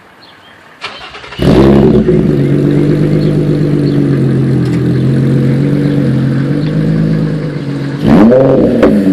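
Infiniti G35's 3.5-litre V6, fitted with a Motordyne Shockwave exhaust, starting up about a second and a half in with a flare, then settling into a steady idle. Near the end the throttle is blipped once, the note rising and falling.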